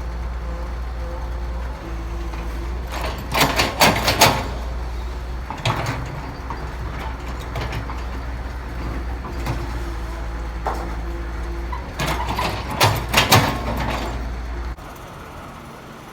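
Heavy construction machinery's diesel engine running steadily, with two spells of loud clattering and scraping, about three seconds in and again about twelve seconds in. The low engine drone cuts off suddenly near the end.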